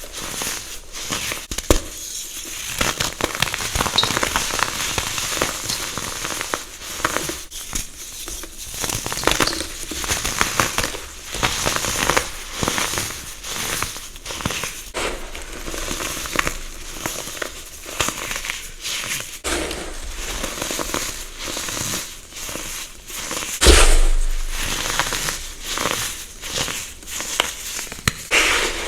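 Close-up crunching and crackling of a brittle material being crushed, a dense run of irregular crisp snaps, with one sharper, louder crunch about two-thirds of the way through.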